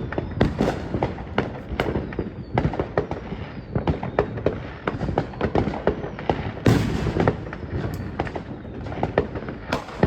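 Fireworks going off: a dense, irregular run of bangs and crackling pops, with one bigger burst about two-thirds of the way through.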